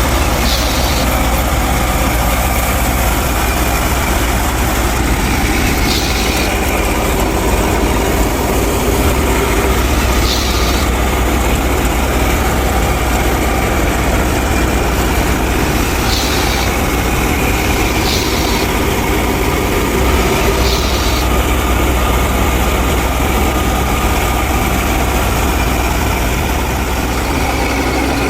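An engine runs steadily with a strong low hum. Short hissing bursts come six times, a few seconds apart.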